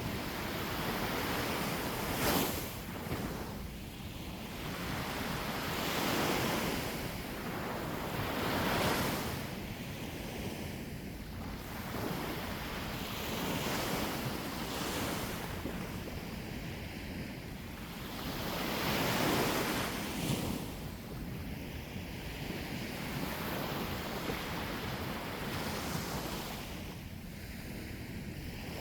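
Sea waves breaking and washing up the shore, the surf swelling and falling back every few seconds, with wind rumbling on the microphone.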